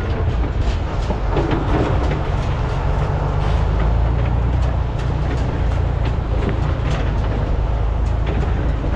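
Large hydraulic excavators' diesel engines running steadily under load, with scattered knocks and clatter of rock and metal as they dig and load material.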